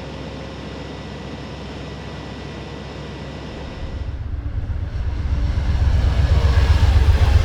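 Train approaching, its diesel locomotive drone growing steadily louder with a deep rumble over the last few seconds.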